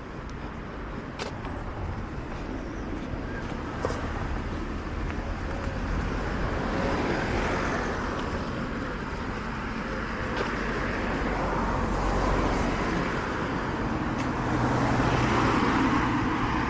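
Road traffic: cars passing by, the noise swelling as each goes past, with an engine's low hum near the end.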